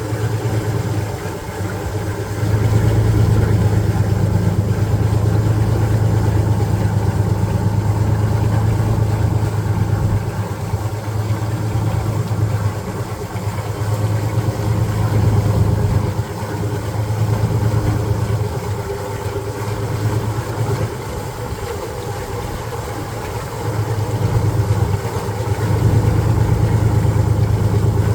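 Detroit Diesel 6-71 TI two-stroke inline-six diesel running, its low, steady note growing louder and easing back several times. The engine is worn, with compression in the 350-375 range, and is due for a rebuild.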